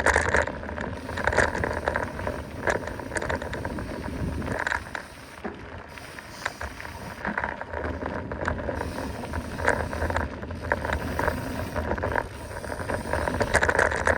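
Mountain bike riding fast downhill over a dirt trail: tyres running on the dirt, with irregular clicks and rattles from the bike over bumps and a steady low rumble.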